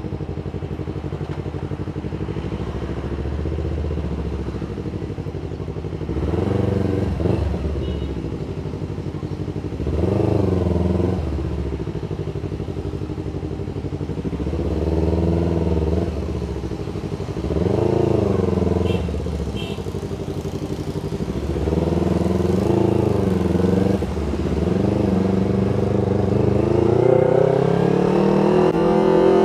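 Yamaha MT25's parallel-twin engine running at low speed in traffic. Its revs swell and fall back every few seconds with short bursts of throttle, then climb steadily near the end as the bike accelerates.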